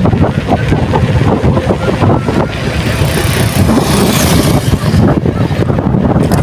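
Loud, steady wind buffeting on the microphone of a moving bicycle rider.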